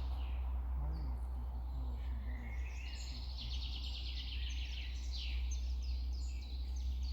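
Several songbirds singing in the forest, quick trilling and sliding phrases, busiest from about two seconds in, over a steady low rumble.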